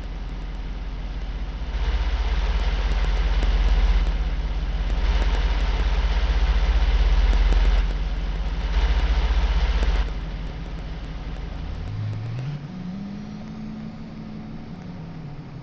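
A vehicle engine running, with a louder, noisier stretch in the middle that cuts in and out a few times. Near the end the low rumble stops and a tone rises, holds and then falls.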